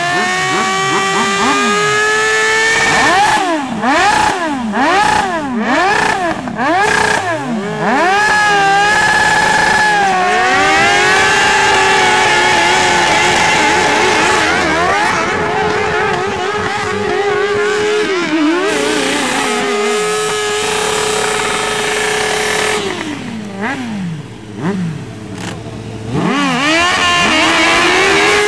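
Streetfighter sport-bike engine revved hard: a rising run-up, a string of quick throttle blips up and down, then held at steady high revs for long stretches, as in a stationary burnout. Near the end the revs drop and blip a few times before holding high again.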